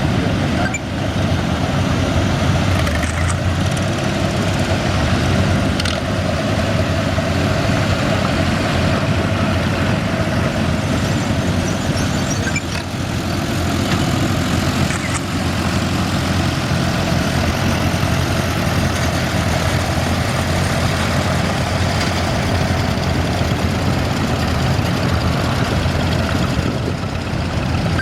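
Farm tractor engines running with a steady, continuous low drone.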